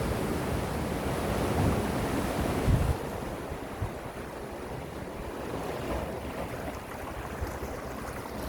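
Gentle sea waves washing on a shore, with wind rumbling on the microphone. It is louder for about the first three seconds, then eases to a softer wash.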